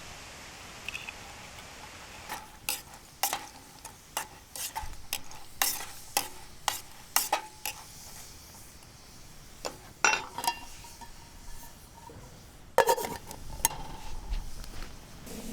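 Cooking utensil tapping and scraping in a frying pan over a faint steady sizzle, as sliced shiitake are stirred. The taps come irregularly, one or two a second, with a few sharper knocks later on.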